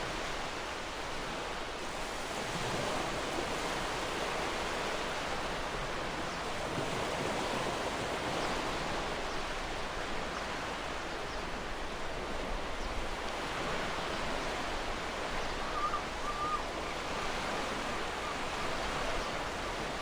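Gentle ocean waves washing ashore: a steady hiss of surf that swells and eases every few seconds, with a faint short bird call about three quarters of the way through.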